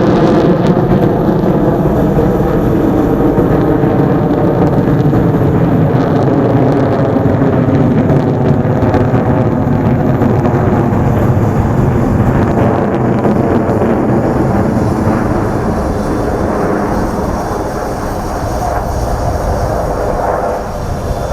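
Su-30SM fighter jets flying over, their engines producing a loud, continuous jet roar with a steady buzzing tone. The noise eases off gradually over the last few seconds.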